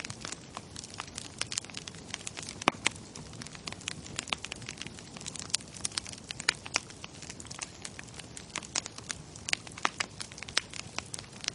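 Wood fire crackling: a steady low hiss with many irregular sharp pops and snaps, one louder pop about a quarter of the way in.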